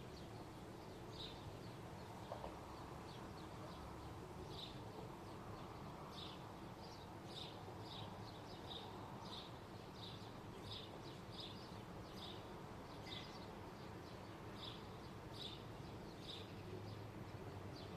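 A small bird chirping repeatedly, with short high chirps about once or twice a second, over a faint, steady, low background rumble.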